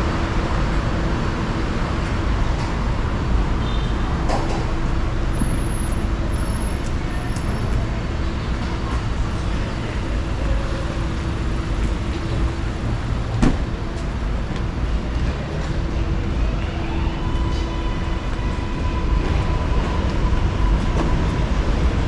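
Steady low rumble of street traffic, with a faint steady hum and a single sharp click about thirteen seconds in.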